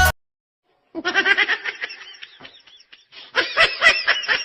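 Background music cuts off suddenly, and after a second of silence a person laughs in quick, repeated bursts, a snicker that swells again near the end.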